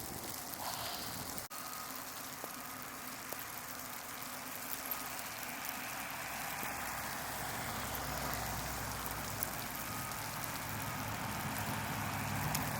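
A vehicle on a wet road: a steady hiss of tyres and spray, with an engine growing louder toward the end.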